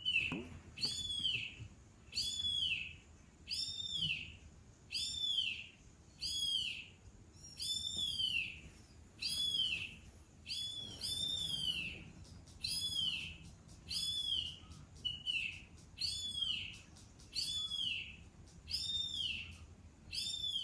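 A played-back "cat-attracting" sound: a high chirping call, each one an arch that rises and then falls, repeated about once a second.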